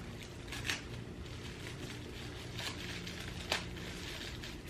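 Steady low room hum with three short, faint rustles or taps, the sharpest about three and a half seconds in, typical of hands handling plant packaging.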